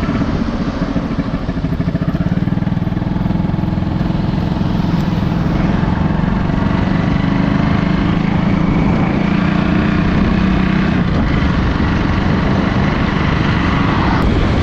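Motorcycle engine running steadily at highway speed, its rapid firing pulses heard under a rush of wind on the microphone.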